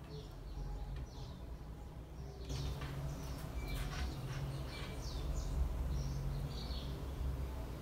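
Small birds chirping repeatedly in the background, many short downward-sliding chirps that grow busier after a couple of seconds, over a low steady rumble. Faint clicks of the metal bag chain are handled in between.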